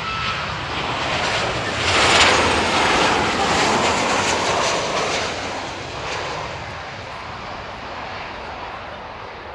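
Jet airliner passing low overhead on its landing approach: the engine noise builds to a peak about two seconds in, holds for a few seconds, then slowly fades away.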